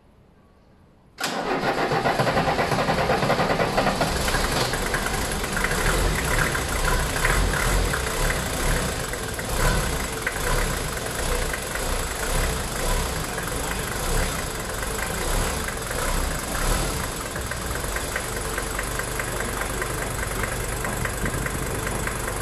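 Diesel car engine bursting into life about a second in and running, uneven at first and settling into a steadier idle near the end. It is its first run after sitting unstarted for ten years, with the fuel tank cleaned and the fuel system bled of air.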